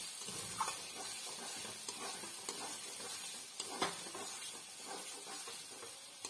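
Fried potatoes and spice masala sizzling in a metal kadai while a metal spatula stirs and scrapes them against the pan, with a sharper scrape just under four seconds in.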